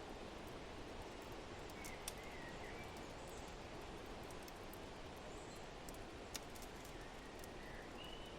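Wood fire crackling in a fireplace with scattered sharp pops, over a steady rush of wind. A few faint bird chirps come about two seconds in and again near the end.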